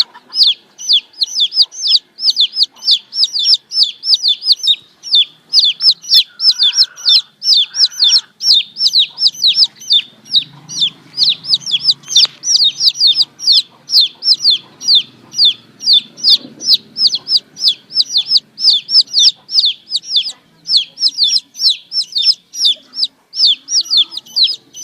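Baby chicks peeping nonstop: a rapid run of short, high, falling peeps, about three or four a second.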